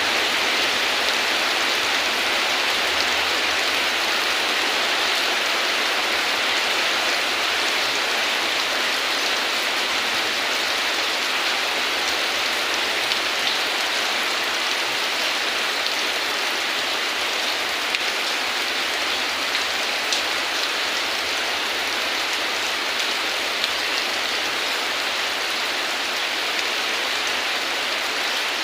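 Steady heavy rain falling, an even hiss of drops with a few sharper drop ticks here and there.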